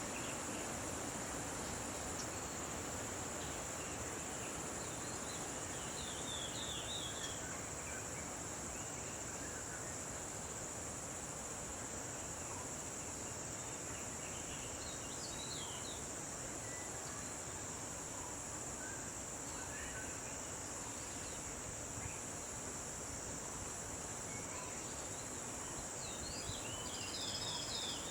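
Steady high-pitched drone of insects such as crickets or cicadas over an even background hiss, with short bursts of bird chirps three times.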